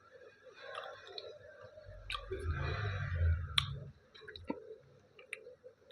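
A person chewing a big mouthful of dal and rice, with wet mouth smacks and clicks. The chewing is loudest and thickest from about two to four seconds in.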